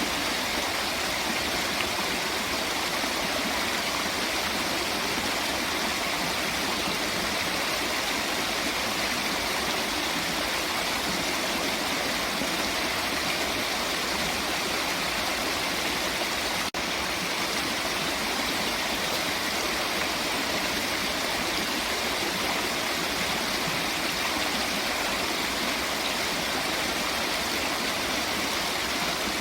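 Steady, unbroken rush of flowing water, as from a waterfall or fast stream, with one momentary break a little past halfway through.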